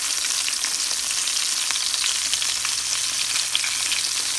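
Battered shiitake mushroom pieces frying in hot oil in a pan: a steady sizzle full of quick small crackles and pops.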